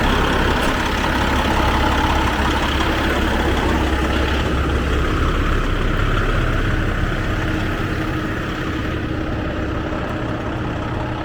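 Semi truck's diesel engine idling just after a start, left running to warm up. The low rumble eases about halfway through, as if the idle is settling down.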